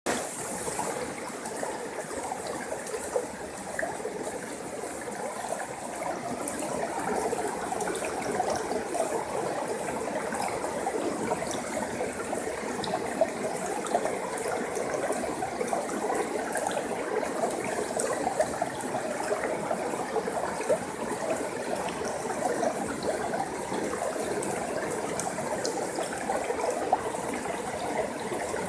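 A forest stream flowing steadily over rocks, a constant babbling rush of water with fine splashy trickles.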